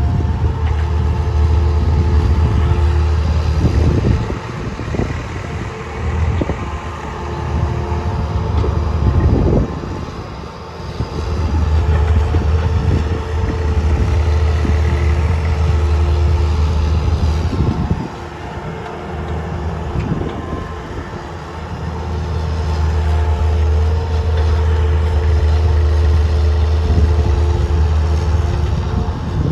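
Diesel engine of a JCB backhoe loader working as it loads sand, rising under load in long spells with dips between them, and scattered knocks from the bucket and sand.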